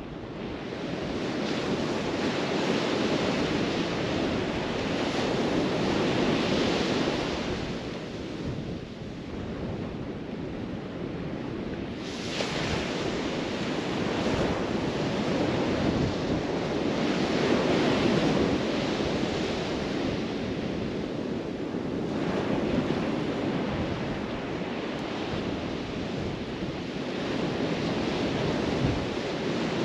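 Ocean surf breaking and washing up the beach, swelling and easing every several seconds, with wind buffeting the microphone.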